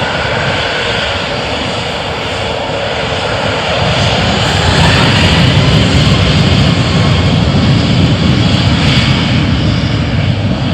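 Airliner engines running loud, a steady rumble and hiss that swells about four seconds in.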